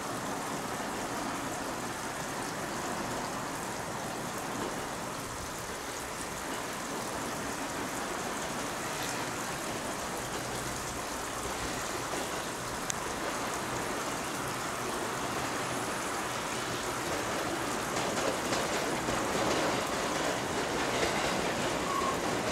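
JR 211 series electric train approaching along the track: a steady rushing running noise that grows louder over the last few seconds, with a few sharp wheel clicks coming in near the end.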